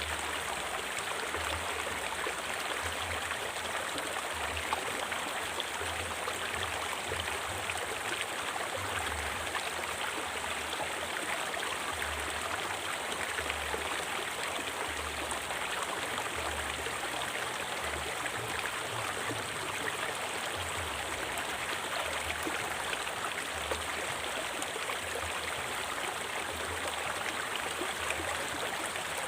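A river or stream flowing over rocks: a steady, even rush of running water.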